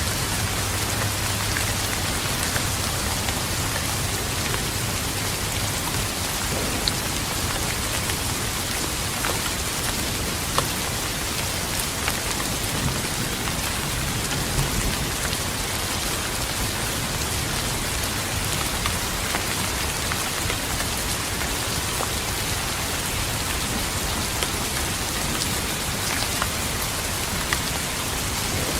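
Steady rain falling on a surface, an even hiss with scattered sharper drop ticks. A low rumble of distant thunder dies away in the first few seconds.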